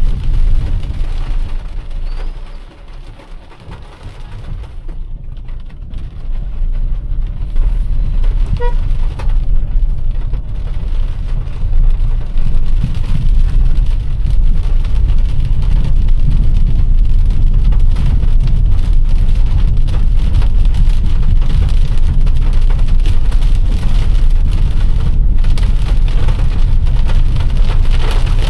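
A car driving through heavy rain: a steady low rumble from the car under the hiss of rain. It grows quieter from about two seconds in, builds back up from about six seconds, and a brief tone is heard near nine seconds.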